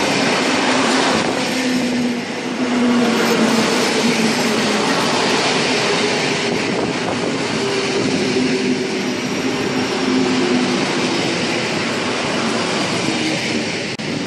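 Two coupled EN57AKM electric multiple units passing close by a station platform: continuous rolling noise of wheels on rail with a low steady hum, until the last car goes by near the end.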